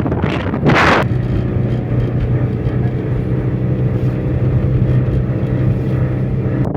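Motor vehicle engine running at a steady speed, a low even hum, cut off suddenly at the end. In the first second, a gust of wind on the microphone.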